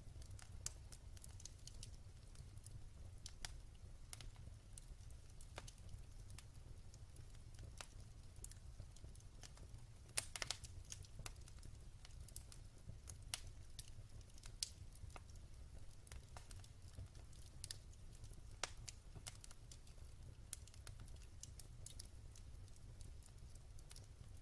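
Wood fire in a fireplace crackling: irregular snaps and pops from the burning logs over a low, steady rumble of the flames, with a louder cluster of pops about ten seconds in.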